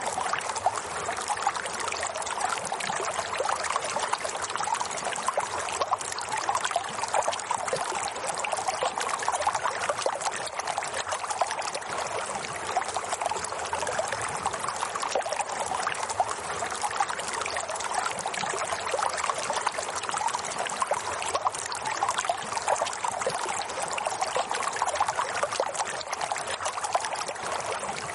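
Running water flowing steadily and evenly, with no pauses or changes.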